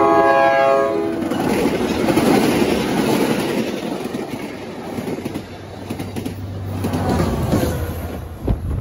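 Commuter train passing at speed: its horn chord drops slightly in pitch and cuts off about a second in, then the coaches' wheels rumble and clatter over the rail joints. Near the end the pushing diesel locomotive goes by with a steady low engine hum.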